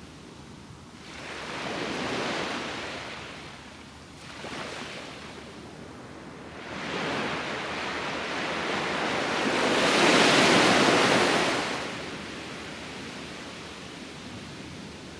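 Ocean surf breaking and washing ashore in slow surges. A wave swells up about a second in and fades, and a bigger one builds from about seven seconds, is loudest around ten seconds, then recedes.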